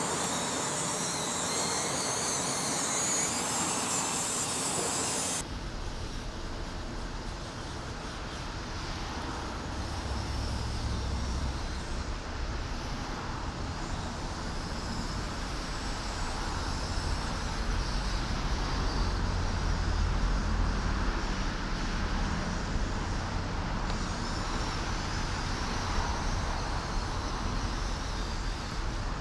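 Steady mechanical running noise from radio-controlled model construction machinery. It changes abruptly about five seconds in, from a high hiss to a low rumble.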